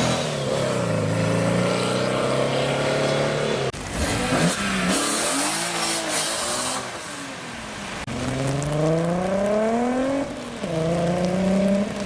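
Car engines revving and accelerating, the pitch climbing and falling in several short takes. A hiss sits high above the engines for a few seconds in the middle.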